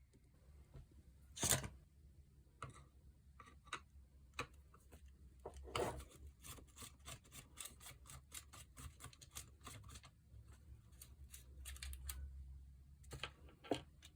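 Scattered light clicks and knocks of tools or parts being handled, with a sharper knock about one and a half seconds in and another near six seconds.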